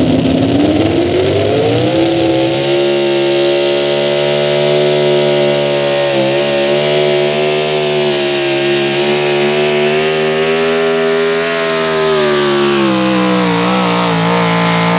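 Pro Stock four-wheel-drive pulling truck's engine at full throttle under the load of the sled. The revs climb over the first two seconds, hold high and steady, then fall and waver over the last couple of seconds as the engine is pulled down.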